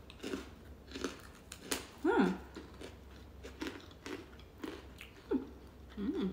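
Crunching and chewing of hard freeze-dried ice cream sandwich pieces, with dry crunches about twice a second. A few short hummed sounds come in between, the loudest about two seconds in.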